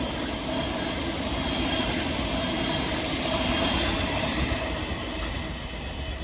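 Electric multiple-unit passenger train passing along the platform: a steady rolling rumble with faint whining tones that swells to a peak about four seconds in, then eases off.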